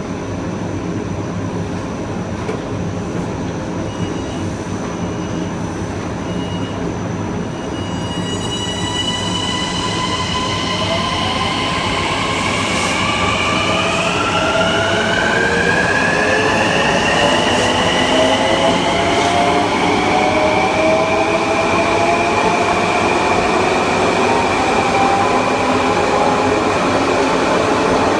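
Kawasaki M9 EMU's Mitsubishi (MELCO) IGBT-VVVF inverter and AC traction motors: after several seconds of steady rolling noise, power comes on about eight seconds in. A group of whine tones rises steadily in pitch as the train accelerates, over the continuous rumble of the wheels on the rails.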